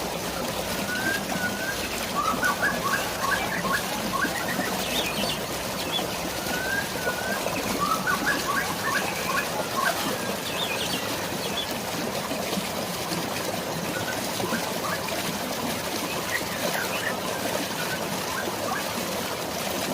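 Birds chirping in quick trills and short whistled phrases over a steady wash of flowing water and drizzling rain. The calls are busiest in the first half and thin out later.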